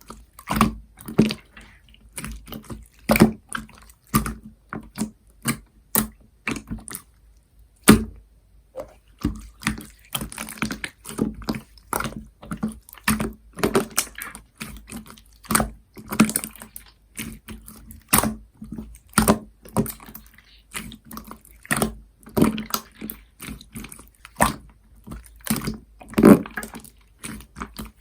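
Slime being squeezed and worked by hand, giving an irregular run of wet clicks and pops, several a second.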